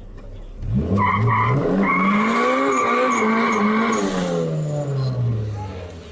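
Honda Civic VTEC four-cylinder engine revs up about a second in while the tyres squeal for about three seconds, then the engine note falls away as the car slows.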